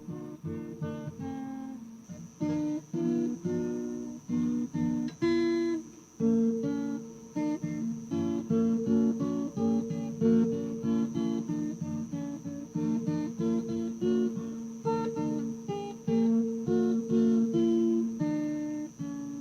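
Acoustic guitar strumming chords in a steady rhythm, an instrumental passage of a song. A faint steady high-pitched whine sits under it.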